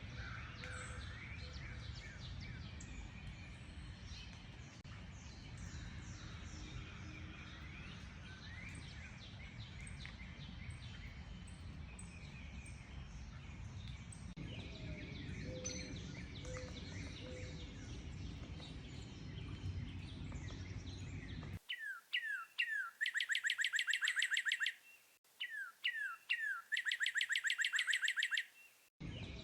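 Many birds calling and chirping together over a steady low background hiss. About two-thirds of the way in it cuts to one bird singing loudly against a silent background: a few downward-sliding notes, then a fast trill of repeated notes. The song comes twice, and the mixed chorus returns at the very end.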